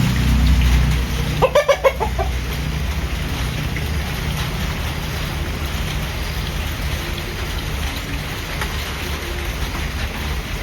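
Chicken clucking: a quick run of about five short clucks a second and a half in, over a steady low background rumble.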